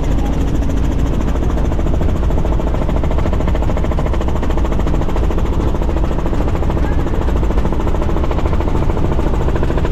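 Helicopter in flight: steady, loud engine and rotor drone.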